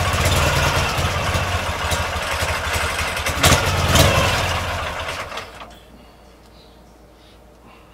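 Motorcycle engine running, with two sharp exhaust bangs about three and a half and four seconds in, the pops of its flame-throwing exhaust. The engine sound then falls away near the end.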